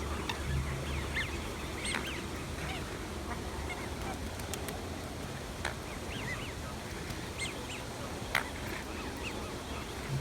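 Waterfowl calling: short, scattered honking calls over a steady background noise.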